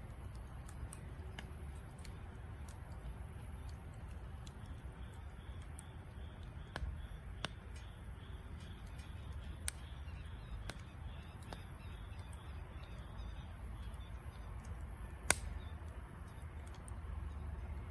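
Wood fire burning in a Snow Peak fire stand: irregular sharp crackles and pops over a low steady rumble, with one louder pop about fifteen seconds in.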